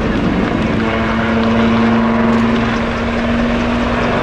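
Military display helicopter in flight: a steady rotor and engine drone with a held hum that sets in about half a second in.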